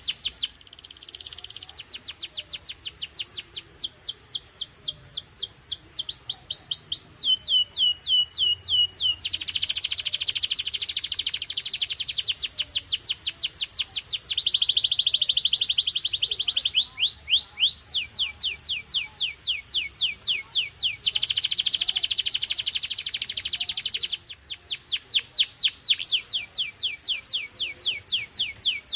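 Domestic canary singing a long run of trills and rolls. Rapid series of quick falling notes alternate every few seconds with dense buzzing rolls, with a short dip in loudness about a second in.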